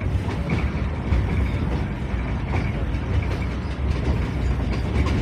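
Passenger train running, heard from inside the carriage: a steady low rumble of the wheels on the rails with a noisy rattle over it.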